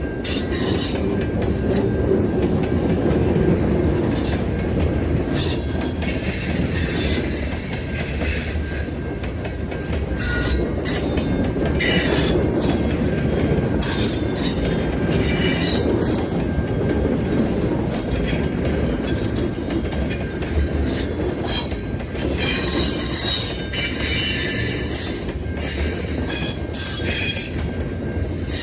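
Train rolling past with a steady rumble of cars on the rails, its wheels squealing and screeching on and off every second or two.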